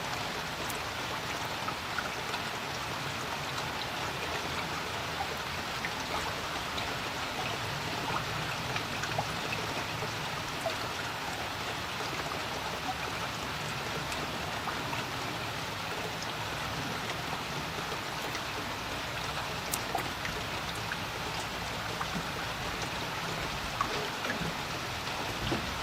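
Steady rainfall on a creek: an even hiss of rain on the water's surface, dotted with many small drop ticks and splashes.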